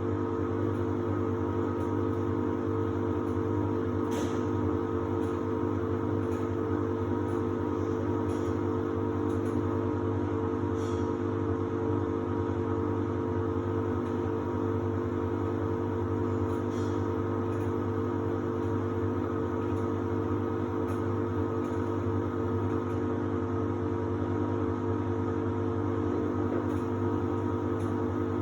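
Samsung WD70T4047CE washer-dryer running in its drying phase: a steady hum with several held tones and a few faint ticks now and then.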